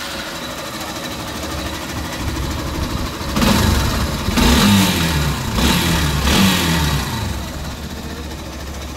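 Hero Thriller motorcycle's single-cylinder four-stroke engine idling. It is blipped several times in the middle, the revs rising and falling, then settles back to idle. This is the test run after a new timing chain and clutch plates were fitted, and the mechanic says the bike is now OK.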